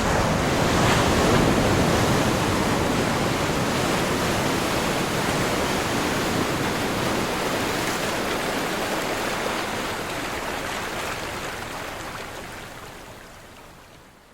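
Ocean waves breaking on a shore: surf swells to its loudest about a second in, then a long wash that slowly fades away near the end.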